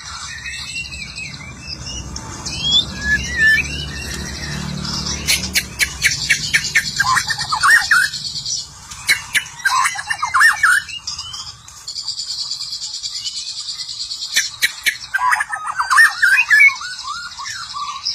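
White-rumped shama (murai batu) singing in several bursts of quick, sweeping whistled phrases, over a steady high hiss with some sharp clicks.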